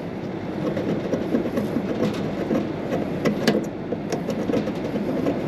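Rooftop air-conditioning equipment running with a steady hum. A few sharp metal clicks and scrapes come from a screwdriver worked against the corroded terminals of a run capacitor, about two seconds in and twice more a little past three seconds.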